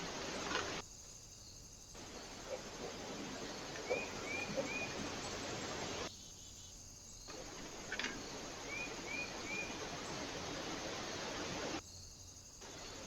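Steady outdoor hiss with a few sharp clicks, cut by short drops where recordings join. A small bird gives a quick run of three short chirps twice, about four seconds in and again near nine seconds.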